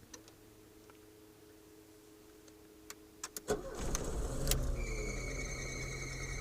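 Volkswagen Gol engine started with the key: a few clicks, then about three and a half seconds in the engine cranks, catches and settles into a steady idle with a high whine over it. This is the small noise heard on starting, which a mechanic said is probably the timing belt, not replaced and not tightened properly.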